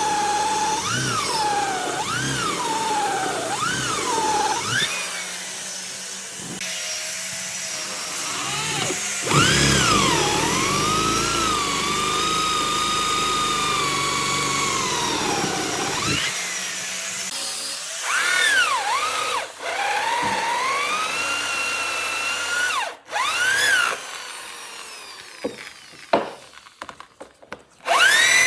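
Electric power tool motor whining under trigger control: it speeds up and slows down again and again, runs fairly steady for several seconds, and ends in a string of short on-off spurts.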